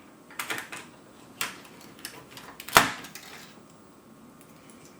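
Small plastic clicks and rattles as a keycap puller works on Amiga keyboard keycaps, then one sharp snap a little past the middle as a keycap pops off its switch.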